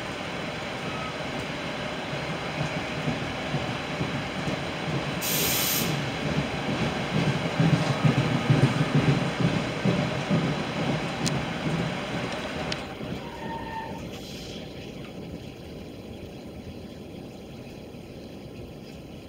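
NJ Transit commuter train coaches rolling past at speed, their wheels rumbling on the rails. The rumble swells to its loudest about halfway, with a brief hiss about five seconds in, then fades as the last car goes by.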